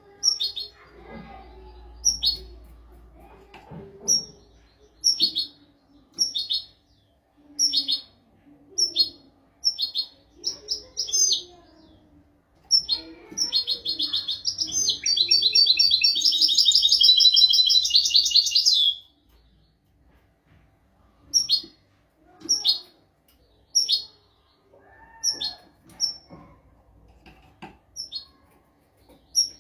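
European goldfinch singing: short sharp notes about once a second, broken by a long, loud, rapid twittering trill about thirteen seconds in that lasts some six seconds.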